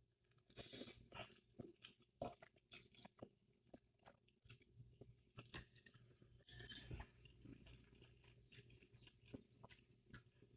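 Faint close-up sounds of someone eating spicy ramen noodles: soft chewing with many small wet mouth clicks, and a few denser bursts near the start and around the middle.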